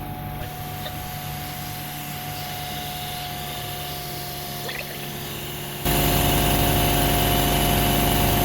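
Rainman portable electric watermaker's high-pressure pump running steadily, a hum with a constant whine, while it is brought up to operating pressure on its first run. It becomes suddenly louder about six seconds in.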